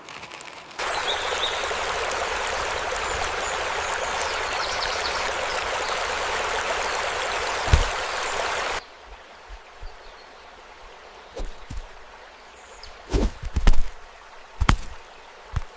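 Flowing water, a stream rushing steadily, cuts off abruptly about nine seconds in. A quieter outdoor background follows, broken by scattered low thumps and clicks.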